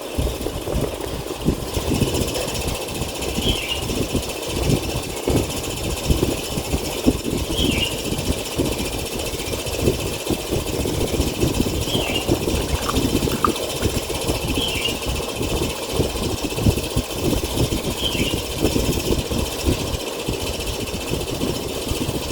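Steady, rumbling machine noise like a running motor, with a short high chirp every three to four seconds.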